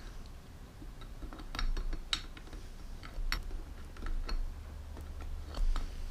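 Irregular light clicks and taps of powervalve parts being handled and tried in a two-stroke cylinder that they won't yet fit, over a low steady hum.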